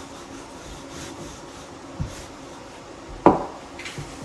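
Handling noises: light rubbing with a dull knock about two seconds in and a sharper, louder knock a little after three seconds, like hard objects set down or struck against wood.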